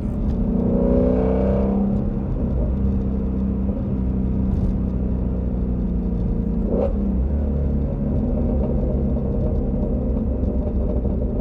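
Shelby GT350R's 5.2-litre flat-plane-crank V8 running under way, a steady drone with a brief rise in revs about a second in. There is a single short crack about seven seconds in.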